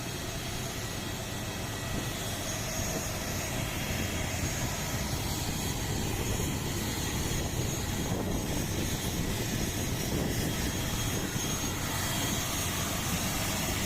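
Steady running noise of an ATR turboprop airliner on the ground, a broad rush with a thin high whine over it.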